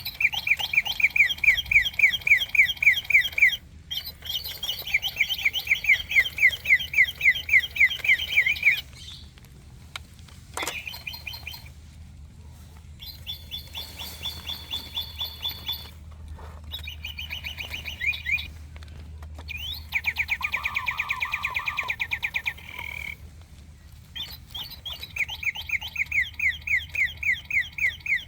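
Electronic bird chirping from a toy bird pen holder: runs of repeated tweets a few seconds long, broken by short pauses, with the pattern changing from run to run and one run a faster trill.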